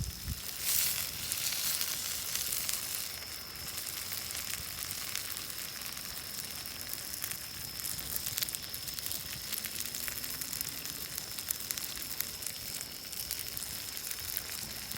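Shrimp sizzling as they cook, a steady hiss with fine crackles that is louder in the first couple of seconds. A thin steady high tone runs under it.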